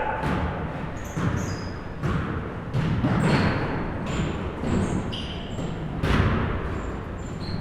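Basketballs bouncing on a hardwood gym floor, a sharp thud every second or so, with short high sneaker squeaks in a reverberant gym.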